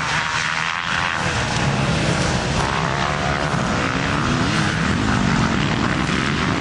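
A steady motor drone under a loud, even noise, its pitch wavering up and down a little about midway.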